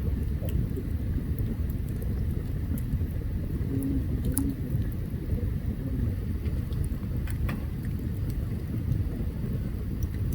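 Open campfire burning, with scattered sharp crackles and pops from the wood over a steady low rumble.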